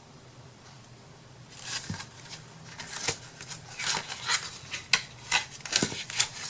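Sheets of scrapbook paper being handled and shuffled: a run of short rustles with a few light taps, starting about a second and a half in.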